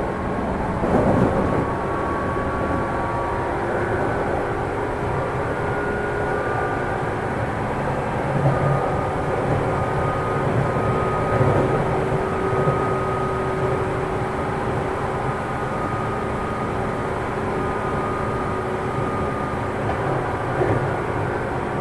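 Running noise inside a JR 205 series electric train's motor car: steady rumble of wheels on rail, with a steady whine from the externally ventilated traction motors and gears held at an even pitch, as the train runs at constant speed.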